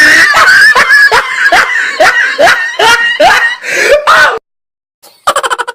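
A shrill comic voice sound effect: a string of about ten short cries, each rising in pitch, like a high-pitched cackling laugh, cut off abruptly about four seconds in. Near the end, after a brief gap, a rapid stuttering sound effect begins.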